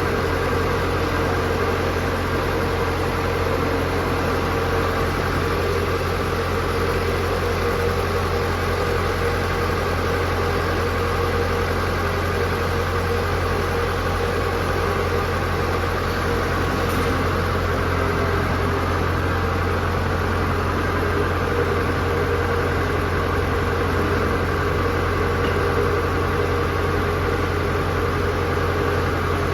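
Mechanical power press (50-ton H-type) running with a steady motor and flywheel hum, with no distinct press strokes standing out.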